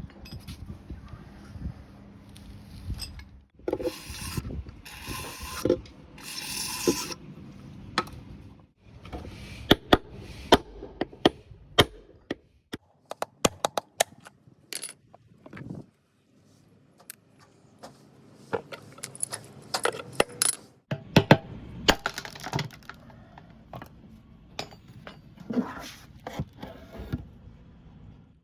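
Hand tools and metal parts clicking and clinking irregularly while working on a washing machine tub, with a few short bursts of scraping noise, the longest about four to seven seconds in.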